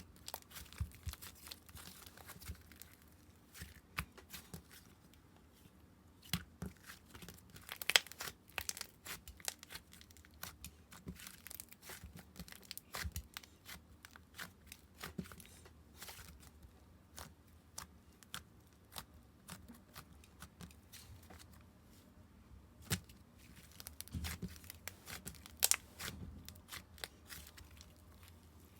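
Hands working stationery-store slime and its materials: irregular crinkling and tearing-like crackles and clicks, with a few louder snaps.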